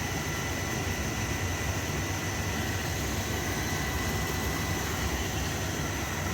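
Oil boiler's burner firing: a steady low rumble, with a faint, high, steady tone over it.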